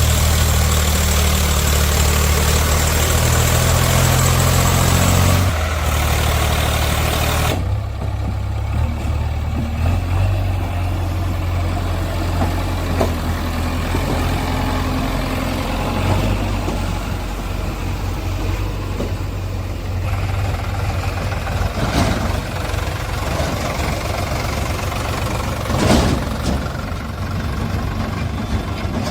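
Heavy diesel engine running steadily at low speed. A hissy layer over it drops away about a quarter of the way in, and there are two short sharp knocks in the last third.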